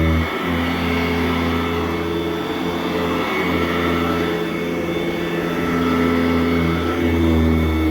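Sanitaire SC899 commercial upright vacuum running on carpet, a steady motor hum. The hum drops slightly in pitch just after the start and comes back up near the end.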